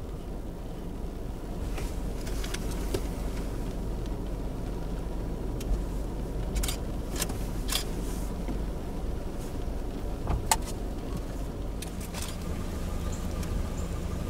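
Car engine idling, heard from inside the cabin as a steady low hum. Scattered sharp taps of raindrops hit the windshield, one louder tap about ten seconds in.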